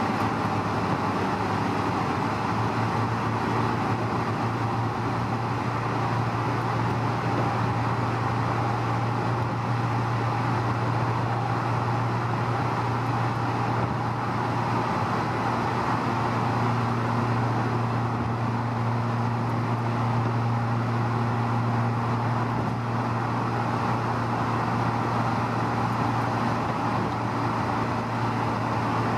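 Car cruising at steady speed, heard from inside the cabin: an even engine drone under steady tyre and road noise.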